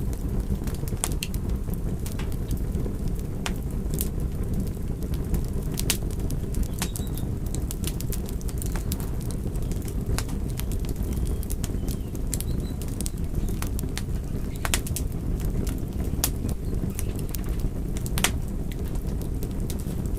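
Fire crackling: irregular sharp snaps and pops, several a second and uneven in strength, over a steady low rumble.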